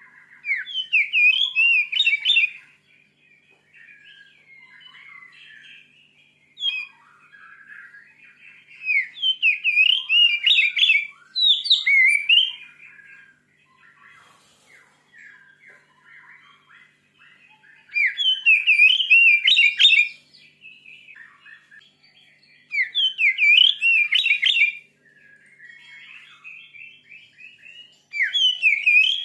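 Oriental magpie-robin (kacer) singing: loud bursts of rapid, high whistled notes sweeping up and down come every few seconds, with softer warbled phrases between them.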